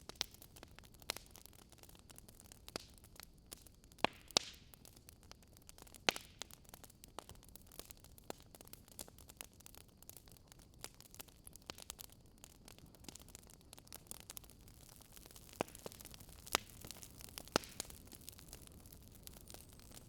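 Wood fire crackling faintly: irregular sharp pops and snaps over a soft steady hiss, with a few louder pops along the way.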